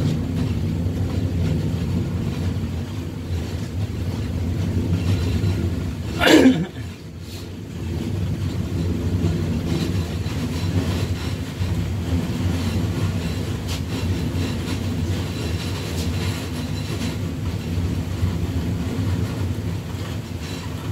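Train running slowly over the track, heard from inside its rear cab: a steady low rumble of wheels and carriage. About six seconds in, a brief, loud sweep falls quickly in pitch.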